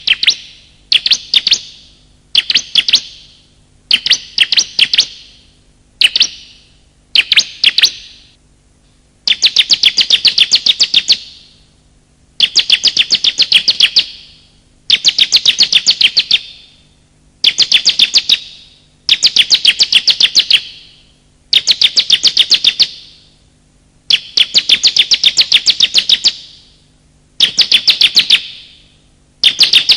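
Bar-winged prinia (ciblek) calling in repeated bursts of rapid, sharp, high chirping notes, each burst lasting one to two seconds, with short pauses between.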